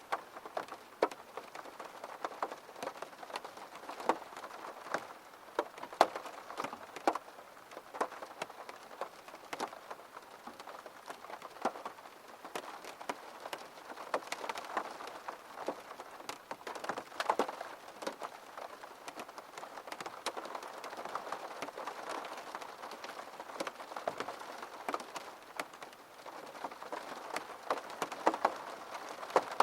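Steady rain pattering on a surface, with many separate drops ticking sharply over a constant hiss.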